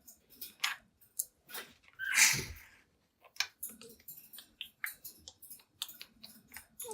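Young pet budgerigar making a string of quick, irregular clicks and taps, with one louder, harsh noisy call about two seconds in.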